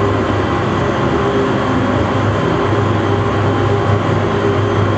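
The YS-11's Rolls-Royce Dart turboprop engines and propellers heard from inside the cabin as a loud, steady drone with a strong low hum, on the ground just after landing.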